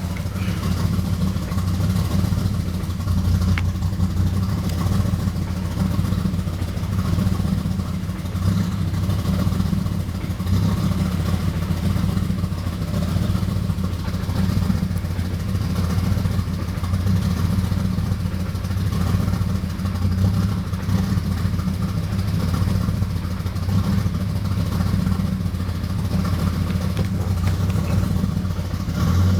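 Toyota Supra engine with HKS 280-degree cams breathing through a 4-inch HKS titanium exhaust, running steadily without revving, a deep exhaust note with a rapid uneven pulse.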